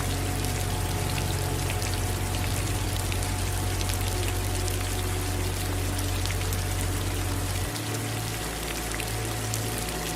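Steady rain, with many sharp ticks of single drops landing close by. Underneath runs a low steady hum that changes note about three-quarters of the way through.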